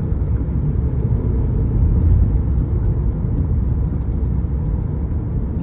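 Steady road and engine rumble inside a 2012 Volkswagen Passat's cabin at highway speed, with faint, irregular tapping from the dashboard over it.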